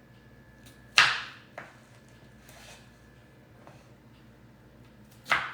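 Two sharp knocks of kitchen work, about four seconds apart: the first is the loudest, with a brief ring-out and a lighter tap half a second after it.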